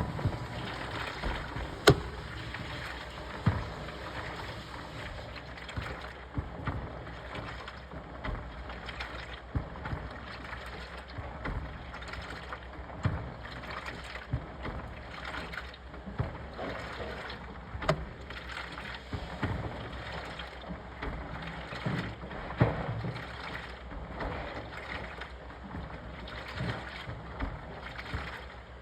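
Washing machine wash cycle: water and laundry sloshing in the drum as it turns, with irregular knocks and clunks, the sharpest about 2 seconds in.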